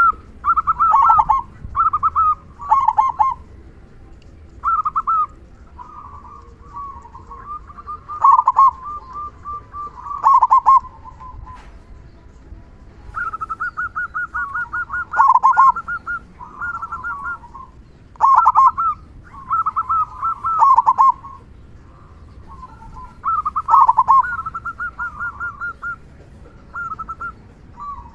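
Zebra dove (local perkutut) singing over and over: rolling, stuttering coos centred around one pitch, a phrase every second or two, some phrases ending on a lower note. It is the trained 'kung besar' style of song, with a big deep final 'kung' note, used to lure other perkutut into singing.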